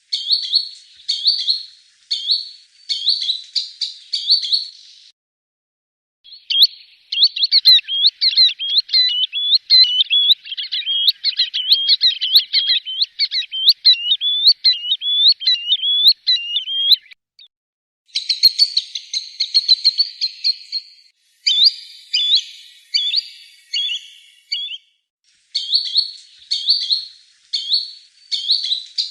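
Green sandpiper calling in clear whistled notes. Short bursts of calls give way to a long run of rapid whistles that sweep up and down for about ten seconds, then more short bursts follow, with brief pauses between the phrases.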